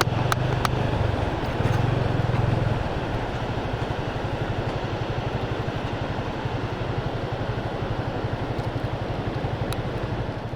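Motorcycle engine running steadily on the move under a steady rushing noise, with a few sharp clicks near the start.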